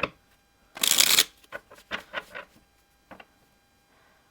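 Tarot cards being shuffled and handled: a loud riffle about a second in, followed by a string of short card snaps and taps.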